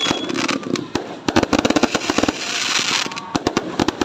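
New Year fireworks going off in rapid succession: many sharp bangs and crackles, with a sustained hiss between about one and three seconds in. A falling whistle fades out right at the start.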